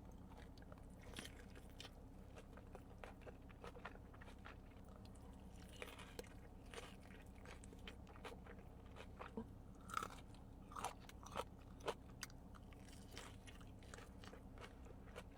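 Faint close-up mouth sounds of someone chewing a juicy tomato-wrapped burger, with scattered soft wet clicks and smacks. A few louder clicks come in the second half.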